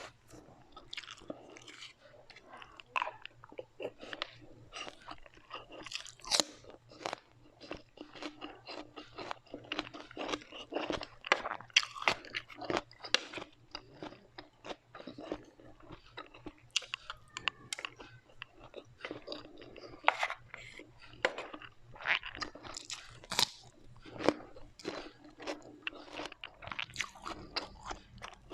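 A person close-miked biting and chewing crunchy food, with a rapid, uneven run of sharp crunches and crackles throughout.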